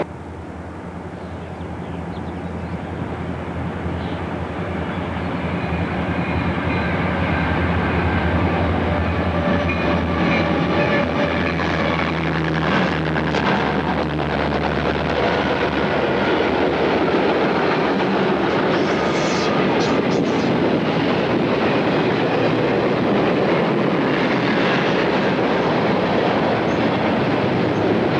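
A diesel-hauled train approaching and passing. A low, steady engine hum grows louder over the first few seconds and fades about halfway through. After that comes the continuous rolling noise of the train's cars going by.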